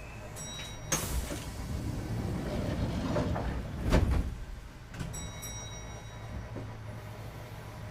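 Kintetsu 2430-series train's sliding passenger doors closing at a station stop: brief high tones near the start, a knock about a second in, then a rising noise that ends in a heavy thud about four seconds in, followed by another short high tone, over the car's steady low hum.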